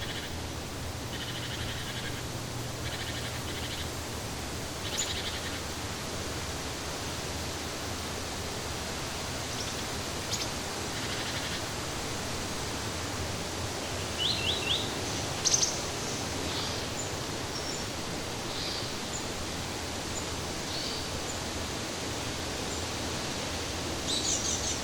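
Forest ambience: a steady hiss with scattered short bird chirps. Near the middle comes a quick run of three notes, then a sharper call a second later.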